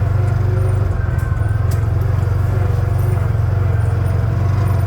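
ATV engine running steadily while driving along a trail, a continuous low drone.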